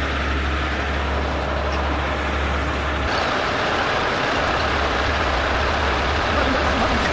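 Heavy diesel truck engine running steadily, its sound changing about three seconds in as more mid-range noise comes up.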